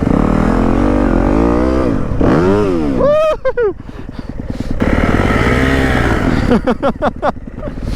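Dirt bike engine revving, its pitch climbing and falling several times. It drops back to a low idle about halfway through, then gives a run of quick throttle blips near the end.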